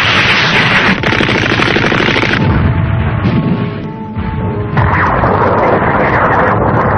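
Cartoon battle sound effects: booming explosions and rapid gunfire over background music, the mix shifting a couple of times.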